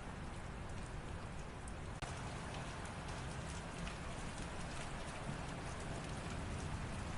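Light rain falling: a steady hiss with scattered ticks of individual drops, growing slightly brighter about two seconds in.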